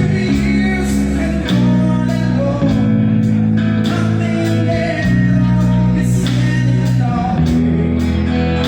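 Rock band playing a song: drums, bass and guitar, with a sung vocal.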